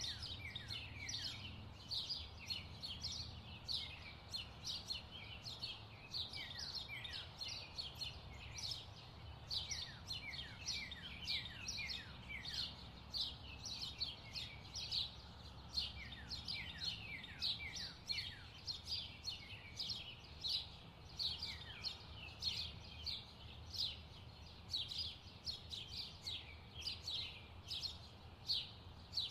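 Birds chirping: a dense, unbroken stream of short chirps, each falling in pitch, over a faint low rumble.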